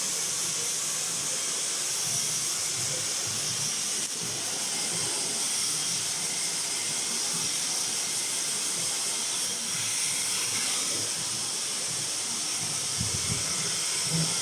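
Handheld hair dryer blowing with a steady hiss during a salon blow-dry, over the patter of rain on a metal roof. A few soft low knocks come near the end.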